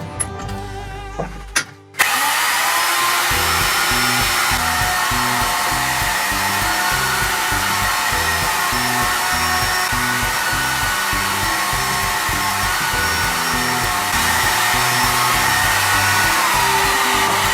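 A few sharp knocks, then an electric power tool starts abruptly and runs steadily with a high whine, working wooden bars. Background music plays throughout.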